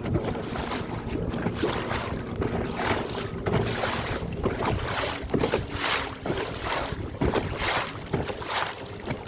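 Waves slapping and splashing against the hull of a small boat in irregular surges, with wind buffeting the microphone.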